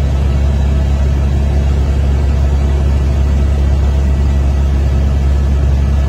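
Helicopter engine and rotor heard from inside the cabin: a loud, steady, low drone that does not change.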